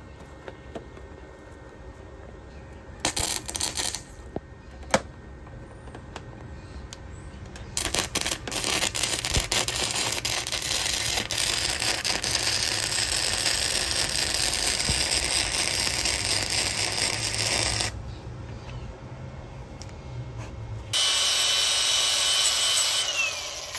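A handheld power tool run against a stuck fastener on a Ford 351 Windsor V8 engine: a short burst, then a long run of about ten seconds with sharp clicks through it, and after a pause another steady run whose motor spins down near the end. The fastener does not come free.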